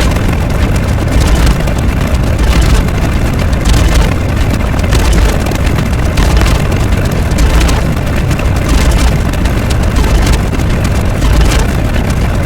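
A loud, steady rumble with a heavy low end, like a running engine.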